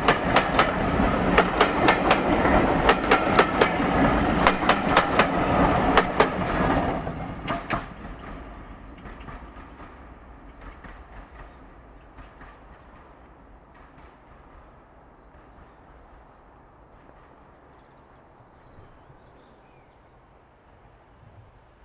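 Diesel-hauled heritage passenger train passing close by, its wheels clattering over rail joints in quick clusters of clicks. About seven seconds in it moves away, and the sound fades to a faint distant rumble.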